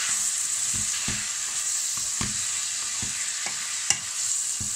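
Chopped tomatoes and onions sizzling in hot oil in a kadai as they are stirred, with the spatula knocking and scraping against the pan about twice a second. There is one sharp click about four seconds in.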